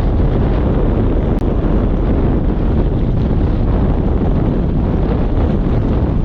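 Strong wind buffeting the microphone: a loud, steady, rumbling roar with no break.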